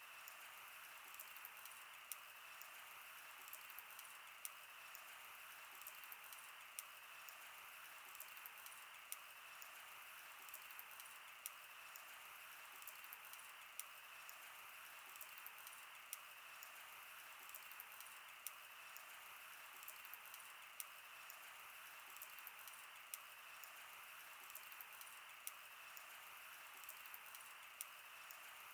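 Wood fire burning: a steady soft hiss with constant small crackles and a sharper pop every second or two.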